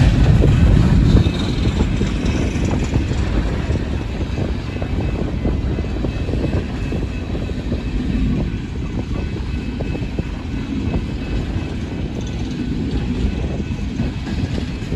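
Empty coal cars of a freight train rolling past close by: a steady rumble of wheels on the rails. It drops a little in level about a second in.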